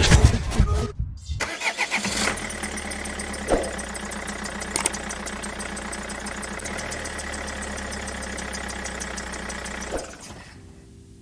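A few loud knocks, then a Ford Transit van engine starts and idles steadily for about eight seconds before cutting off abruptly.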